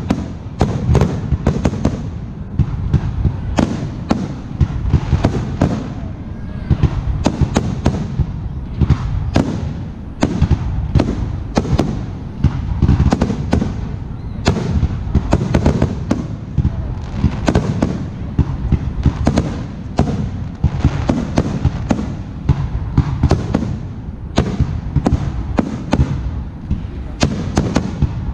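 Fireworks display: aerial shells bursting one after another, a rapid run of sharp bangs, several a second, with a continuous low rumble of echoes between them.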